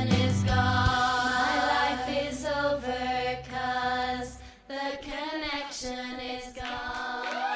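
Group of girls singing long held notes of a song's closing passage over a steady low backing, which drops out about four and a half seconds in, leaving the voices alone.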